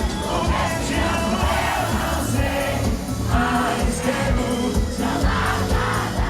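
Live sertanejo concert: amplified singing over a band with a heavy bass beat, with a crowd singing along.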